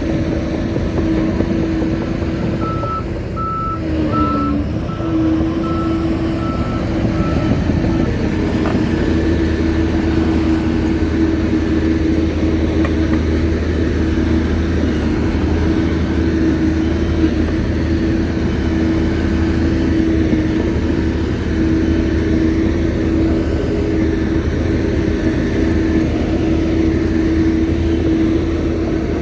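Shantui bulldozer's diesel engine running steadily under work, with a brief dip in pitch as the load changes. A few seconds in, a reversing alarm beeps about once or twice a second for roughly five seconds.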